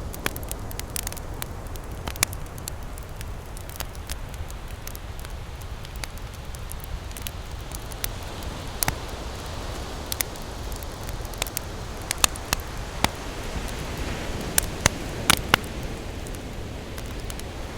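Wood campfire crackling, with sharp pops scattered throughout and a cluster of louder ones in the later part. Ocean surf washes steadily behind it.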